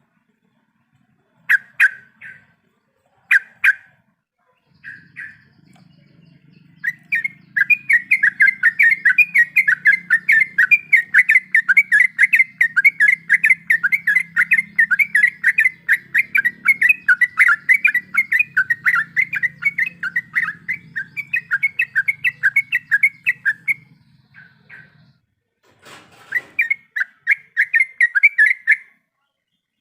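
Yellow-vented bulbul (trucuk) singing: a few short separate calls, then a long, fast rolling run of chattering notes that lasts about seventeen seconds and breaks off. A shorter fast run comes near the end.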